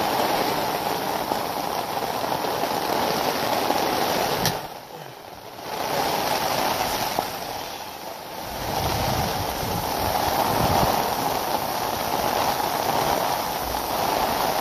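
Heavy downpour of rain, a steady loud hiss that drops away briefly about five seconds in, then comes back with a low rumble under it.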